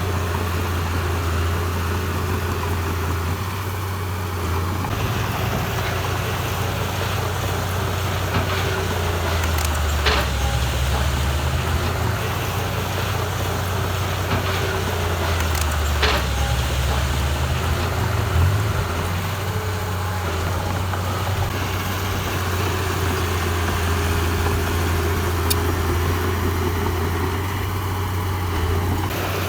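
Heavy diesel engine of earthmoving machinery running steadily, its low note dipping and recovering a few times. Three sharp knocks come about ten, sixteen and eighteen seconds in.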